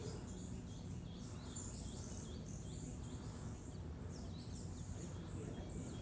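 Birds chirping faintly: many short, high calls repeating over a steady low background noise.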